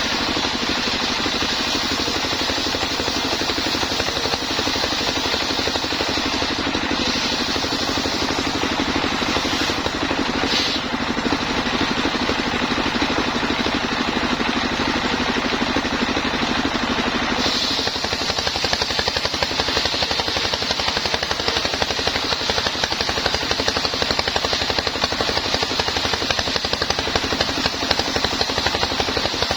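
Homemade sawmill's engine running steadily, with a high hiss that grows louder about two-thirds of the way through.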